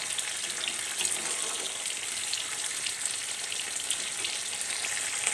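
Prawns in a mustard and poppy-seed paste with mustard oil, sizzling and crackling steadily in a kadai over the gas as the curry simmers through its last minutes.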